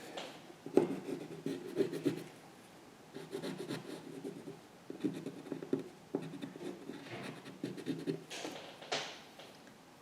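Stabilo pencil scratching across paper in a run of short, irregular strokes with brief pauses between them.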